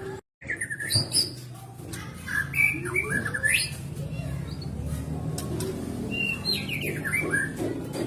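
White-rumped shama singing: several quick phrases of sweeping, whistled notes. The sound cuts out for a moment just after the start.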